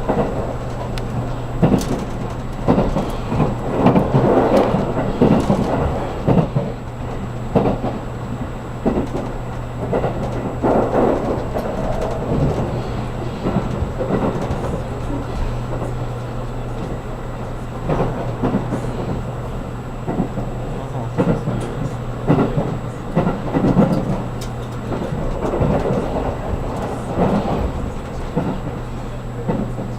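Interior of a 783 series limited express car running at speed: a steady low hum under an uneven rumble of wheels on track, with irregular louder surges and knocks.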